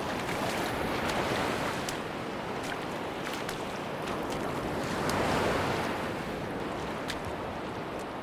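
Sea waves washing onto a beach, a steady surf hiss that swells about a second in and more strongly around five seconds in.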